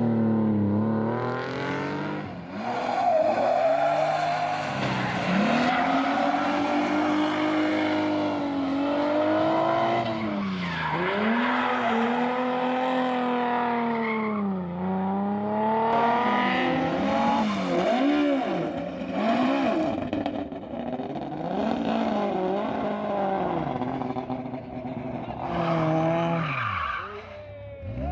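Historic rally car engines revving hard on a special stage, the pitch repeatedly climbing and then dropping with gear changes and lifts off the throttle. A brief dip near the end, then the engine note climbs again.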